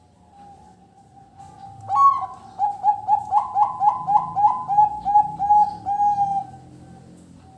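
Zebra dove (perkutut) singing: a quick run of a dozen or so short coos, two to three a second, starting about two seconds in with a higher first note and trailing off near the end.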